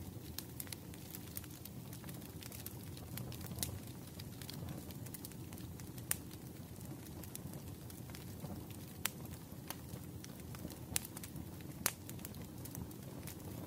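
Wood fire crackling in a fireplace: a steady low rush of flame with irregular sharp pops and snaps, a few louder ones scattered through.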